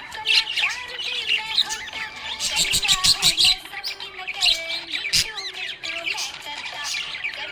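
Budgerigars chirping and warbling without a break, many short calls overlapping at once.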